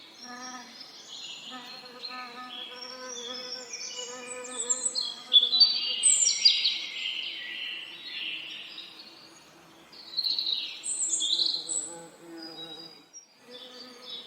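Several songbirds singing with quick chirps and trills over a steady bee buzz. The birdsong is loudest about a third of the way in and again near the end, and the buzz drops out briefly shortly before the end.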